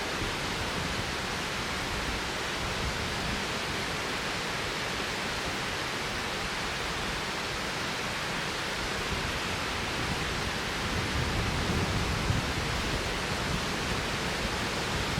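Strong wind rushing steadily through the woods, with gusts buffeting the microphone as a low rumble that grows louder about ten seconds in.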